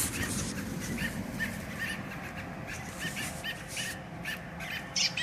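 American robins calling in a steady series of short, sharp chirps, about two to three a second: the agitated calls of robins guarding a fledgling that has fallen from the nest.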